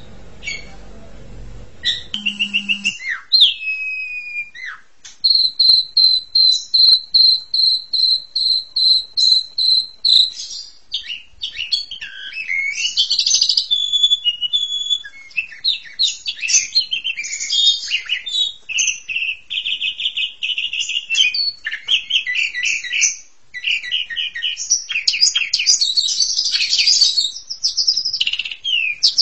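Asian pied starling (jalak suren) singing. About five seconds in comes a run of fast, evenly repeated high notes, followed by a varied stream of whistles, trills and harsh chatter.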